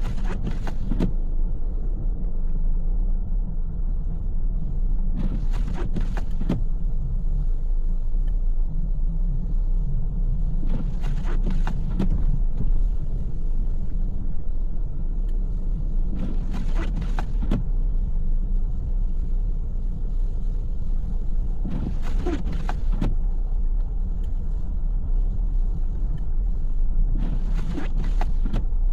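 Car driving on a snowy road, with a steady low rumble of road and engine noise. A short clattering sound repeats about every five and a half seconds.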